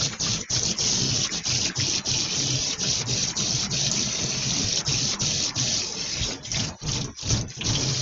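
Kitchen tap running hard into a sink. The flow is broken by many brief dips, typical of dishes being rinsed under the stream.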